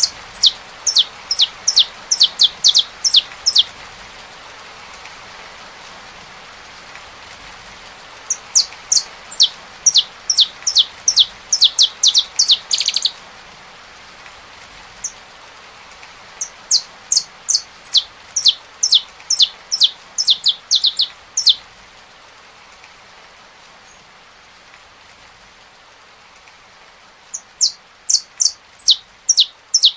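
Saffron finch singing: four bursts of rapid, high, downward-sweeping notes, each a few seconds long and separated by pauses of several seconds, over the steady hiss of rain.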